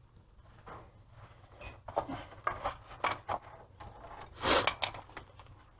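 Hands rummaging among tools and parts in a garage, searching for a missing washer: irregular scrapes and rubbing, a short bright ringing tick about a second and a half in, and a louder scraping rattle about four and a half seconds in.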